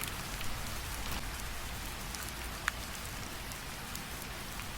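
Recorded rain sound effect: steady rainfall with scattered drop ticks and one sharper drip about midway.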